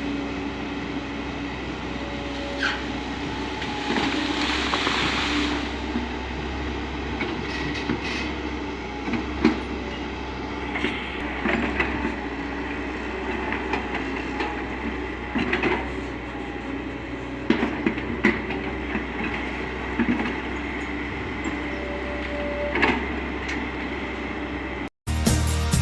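Excavator at work: its diesel engine drones steadily under scattered metallic clanks and squeaks from the arm, bucket and tracks, with a burst of hiss about four seconds in.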